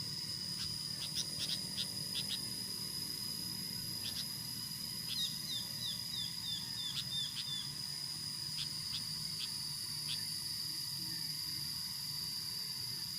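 Bird calls: scattered sharp chips, and about five seconds in a quick run of about eight downslurred notes. Under them runs a steady high insect drone.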